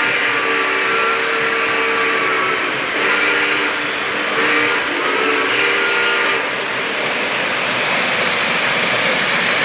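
A model train's sound system blows a chime horn in the grade-crossing pattern: long, long, short, long. It sounds over the steady running rumble of the trains on the track.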